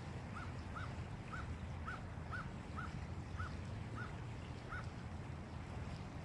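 A bird calling: a run of nine short, arched notes, about two a second, stopping a little before the end, over a steady low rumble of wind and flowing water.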